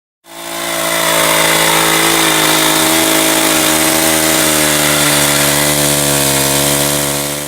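Chainsaw engine running at high speed, a steady buzzing whine with a slight dip in pitch a couple of seconds in. It starts and cuts off abruptly.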